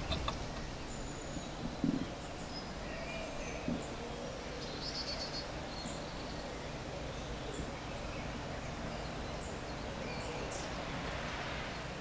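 Outdoor ambience of scattered short bird chirps and one brief trill over steady low background noise, with two soft knocks about two and four seconds in.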